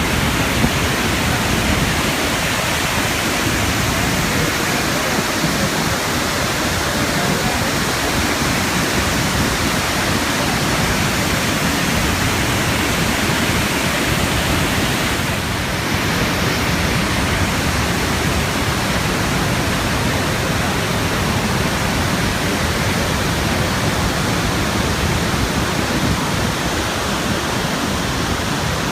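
Iguazu Falls: a loud, steady rush of falling water, unbroken throughout.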